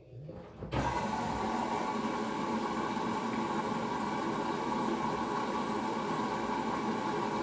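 LG direct-drive washing machine taking in water for the wash, a steady rushing hiss that starts suddenly about a second in.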